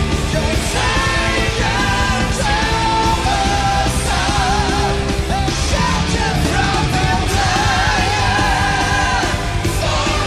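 Power metal band playing live: distorted guitars and drums under high sung notes that waver with a wide vibrato.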